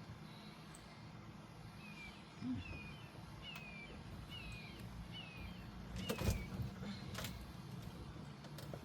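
A bird calling a run of about six short, falling whistled notes, roughly two a second, with a few sharp knocks about six, seven and nearly nine seconds in.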